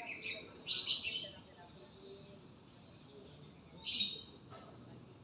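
A murai, a Copsychus songbird, singing: two loud bursts of rapid, high-pitched warbling notes, one about a second in and another near four seconds, with fainter thin notes between.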